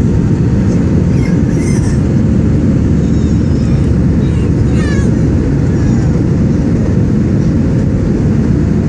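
Airliner cabin noise during takeoff and climb: the jet engines and the airflow over the fuselage make a steady, loud, low noise with no change in level.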